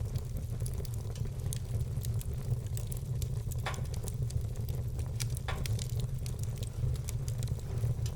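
Wood fire burning in a fireplace, with frequent small crackles and two louder pops about three and a half and five and a half seconds in, over a steady low rumble.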